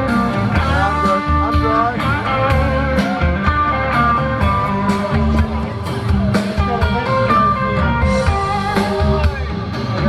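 Live blues-rock band playing an instrumental break, electric guitar lead with bent notes over bass and a steady drum beat.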